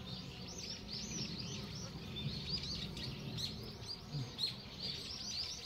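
Many birds chirping continuously in quick, short, overlapping calls, over the low steady hum of a crowded honeybee colony on an open hive frame.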